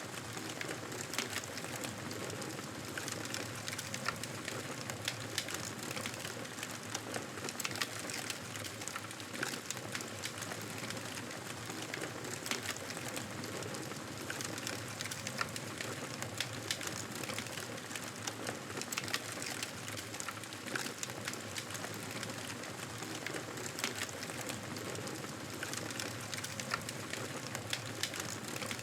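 Wood fire burning in a fireplace, crackling steadily with frequent small sharp pops over an even rushing hiss.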